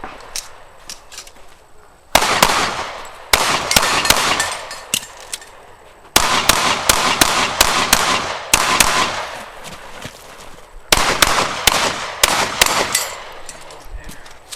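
Pistol gunfire in rapid strings of shots, each string trailing a long echo. The firing begins about two seconds in, with short pauses between the strings.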